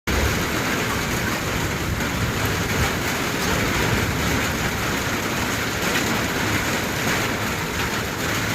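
Heavy rain falling, a steady dense hiss with faint scattered ticks of drops striking surfaces.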